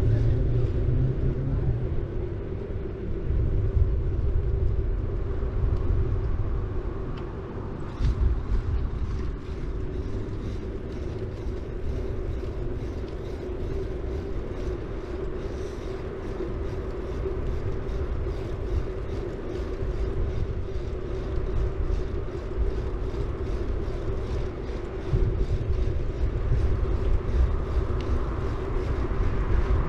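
A city bike rolling along the road, recorded from the bike itself: tyre and road rumble with a steady hum. From about eight seconds in, a fast, even ticking runs underneath.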